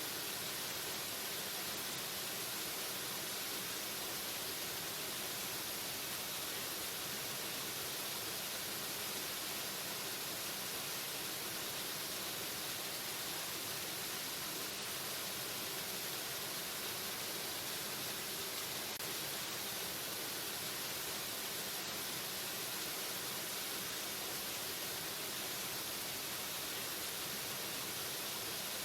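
Waterfall: falling water rushing as a steady, unbroken hiss, bright and even.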